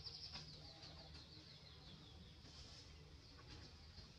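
Faint outdoor ambience with a bird's rapid, high-pitched chirping trill that slows and fades out over the first second and a half.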